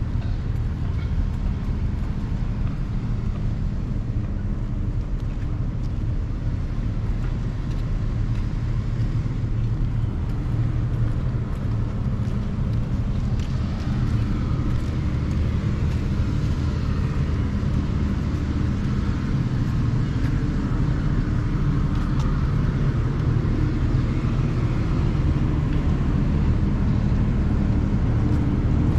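A motor vehicle running steadily: a low engine hum with road noise.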